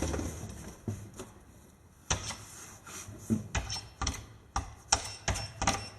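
A quick, uneven run of sharp clicks and taps, about ten of them over the last four seconds, like hard buttons or small objects being handled.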